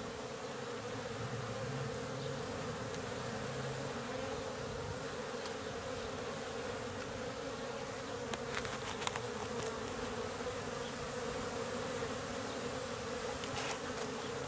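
Many honeybees buzzing in flight around a busy hive, a steady hum with a few faint clicks around the middle and near the end. The bees are out on cleansing and orientation flights.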